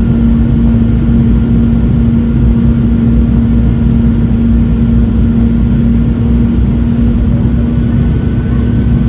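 Cabin noise inside a Boeing 717 with its tail-mounted Rolls-Royce BR715 turbofans: a steady low roar with a strong steady hum, unchanging throughout.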